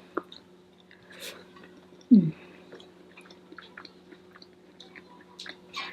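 A person chewing a mouthful of rice and vegetables close to the microphone, with scattered small wet mouth clicks and a brief low murmur of the voice about two seconds in.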